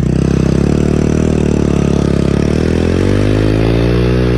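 Single-cylinder motorcycle engine running steadily, then revving up with a rising pitch about three seconds in.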